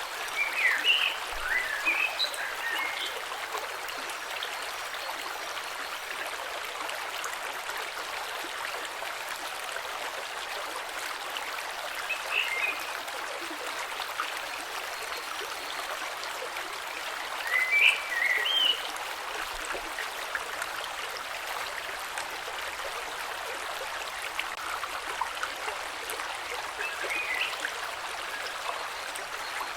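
Small mountain stream flowing steadily over mossy stones. Short high chirps break through in a few brief clusters: about a second in, near the middle, and twice near the end.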